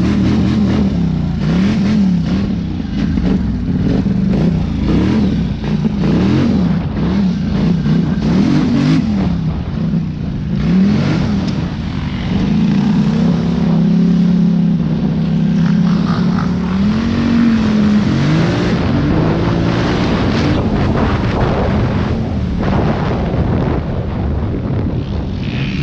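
Small off-road vehicle engine running under load while riding, its pitch rising and falling again and again as the throttle is worked. It holds a steadier note for a few seconds around the middle.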